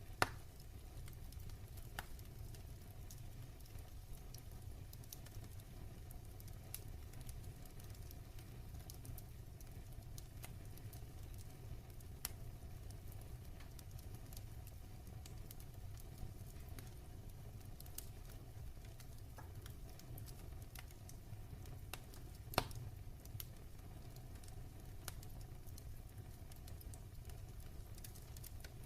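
Wood fire in a fireplace burning low on its embers: sparse, faint crackles over a low steady rumble, with two sharper pops, one right at the start and one about 22 seconds in.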